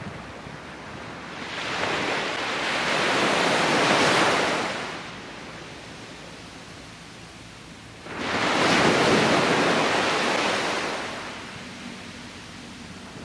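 Sea waves breaking on the beach, twice. One swells in about a second and a half in and washes out by about five seconds; a second breaks suddenly about eight seconds in and then fades away.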